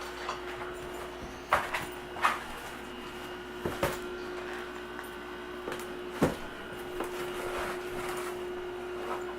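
Alaskan Malamute puppy tearing and chewing a cardboard box: scattered ripping and knocking sounds a second or so apart, over a steady low hum.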